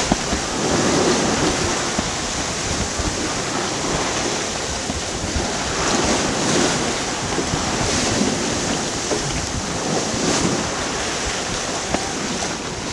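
Water rushing and splashing along the hull of a sailboat beating close-hauled into rough chop, with strong wind buffeting the microphone. The noise swells and eases every second or two.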